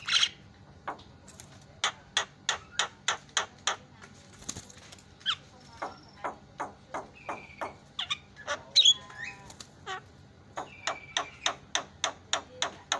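Javan myna calling: a run of sharp, clicking notes at about three a second, broken by short whistled notes and a louder harsh call about nine seconds in.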